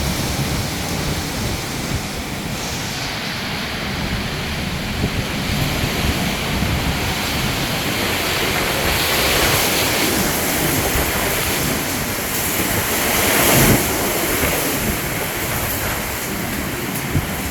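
Strong dust-storm wind gusting and buffeting the microphone, a steady rushing that swells in stronger gusts, the loudest a little past halfway.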